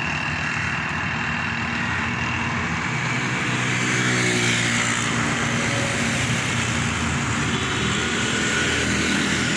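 Tractor engine running steadily, its pitch shifting slightly about four seconds in.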